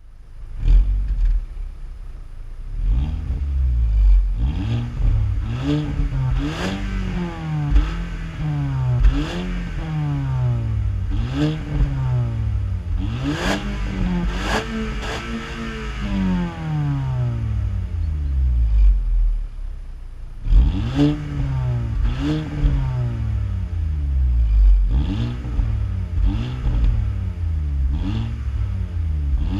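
2004 VW Golf 5 GTI's 2.0-litre turbocharged four-cylinder FSI engine (code AXX) being revved repeatedly while stationary, about fifteen quick blips, each rising and falling back toward idle, with a short steady idle about two-thirds through. A short sharp sound accompanies the top of several blips.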